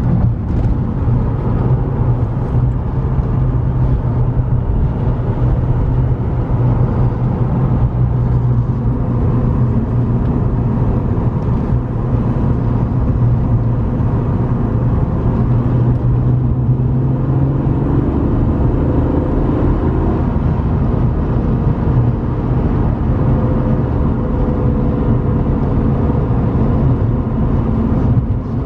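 1998 BMW E36 M3's 3.2-litre straight-six running while the car is driven, a continuous low engine drone over road noise. A little past halfway the steady drone gives way and faint rising tones come in.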